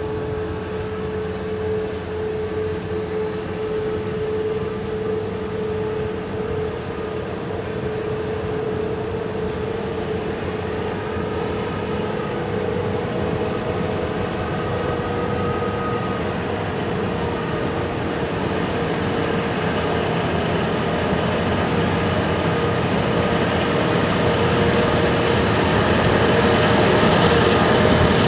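Freight trains in a rail yard: container wagons rumble and clatter slowly along the track, and a diesel-electric locomotive hauling another container train approaches. The rumble grows steadily louder toward the end as the locomotive draws near.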